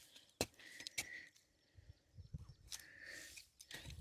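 Quiet handling noises of hand-planting in soil: a few soft taps and rustles, with two short high-pitched calls, one about a second in and one near the end.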